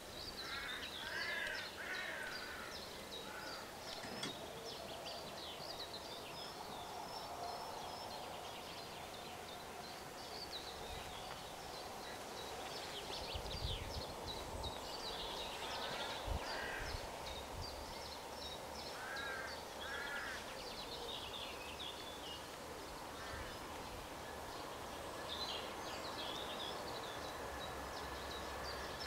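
Birds calling and singing over faint outdoor background noise, with short calls that come in pairs now and then. A few brief low thumps come near the middle.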